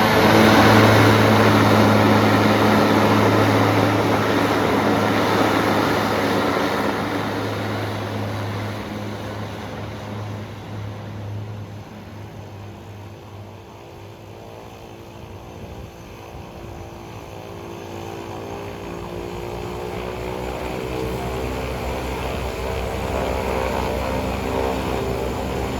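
Propeller plane engines at takeoff power, a loud drone that fades as the plane moves away. From about halfway through, engine sound builds again, with a slowly shifting pitch.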